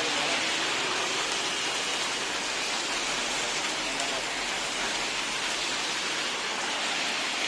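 Heavy rain falling steadily: a dense, even hiss of rainfall.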